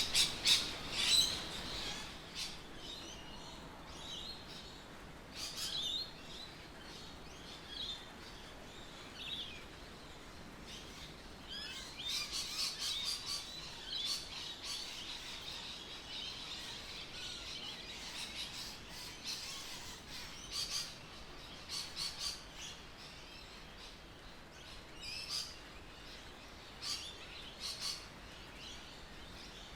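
Birds chirping and calling in many short, overlapping bursts over a faint steady background hiss, busiest in the middle.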